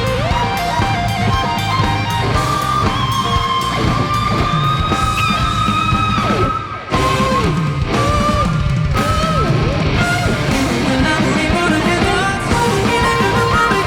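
Live rock band playing, led by guitar, with a brief break about seven seconds in before the full band comes back.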